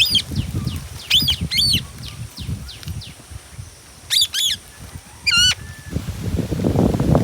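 Indian ringneck parrot giving short, harsh screeching calls, about five of them spaced irregularly, two close together near the middle. Faint, rapid high chirping goes on underneath.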